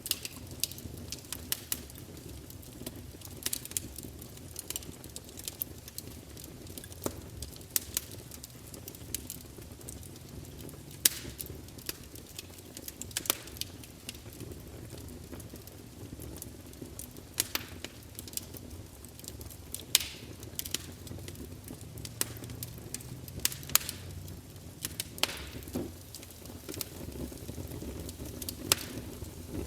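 Campfire burning: a steady low rumble of flames with frequent irregular sharp crackles and pops from the burning wood.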